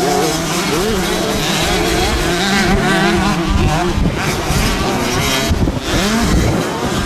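Several motocross bikes racing, their engines revving, with the pitch rising and falling over one another.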